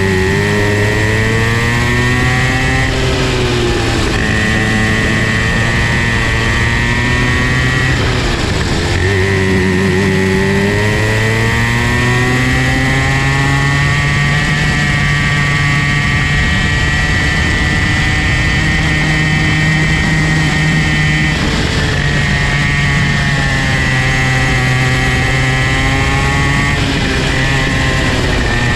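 Comer C50 50cc two-stroke kart engine running hard, its revs dropping and then climbing again about five times as it slows for corners and accelerates out of them.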